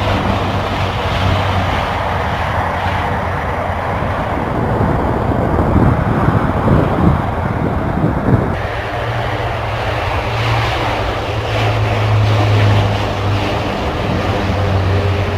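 Military transport aircraft engines running: a steady low hum under a rushing engine noise. The sound changes abruptly about eight and a half seconds in.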